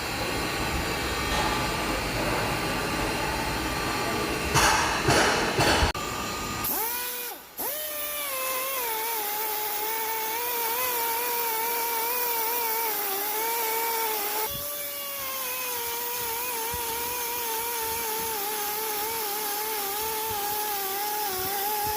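Harsh, noisy metalwork hiss with louder crackling bursts, then about seven seconds in a high-speed rotary power tool spins up and runs with a steady whine that wavers slightly in pitch, working on a cylinder block being repaired.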